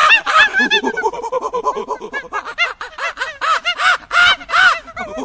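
A flock of birds calling all at once: many short, pitched calls that rise and fall, overlapping at several a second.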